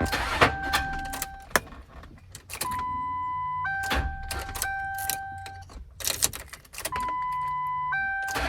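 Ford Crown Victoria failing to start when the key is tried: sharp clicks and clunks with a few low thumps and no engine running, a fault the owner traces to a cheap starter that is locking up. Over it a steady electronic beep of about a second, then a lower two-note tone of about two seconds, repeats every three and a half seconds or so.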